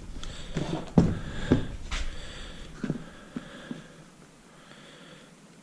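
A few light knocks and clunks of a plastic-bodied chainsaw being handled and turned over, growing sparser after about three seconds.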